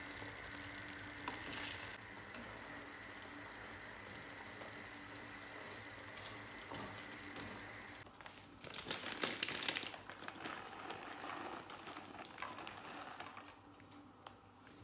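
Food cooking on the stove: a steady sizzle for about eight seconds, then louder stirring and clattering in the pan that fades toward the end.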